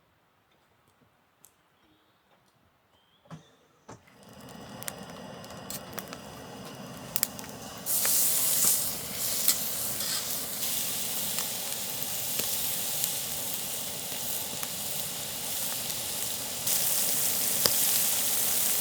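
Food sizzling in a hot pan. After a few faint clicks, the sizzle starts about four seconds in, builds, and jumps louder about eight seconds in, then stays steady.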